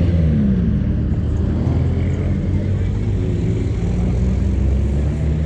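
Car engine running with a steady low rumble, its pitch dropping briefly in the first second.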